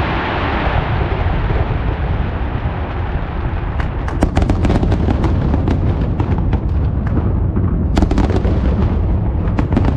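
Aerial fireworks display: a continuous rumble of shell bursts. Rapid crackling sets in about four seconds in, with another flurry of crackles near eight seconds.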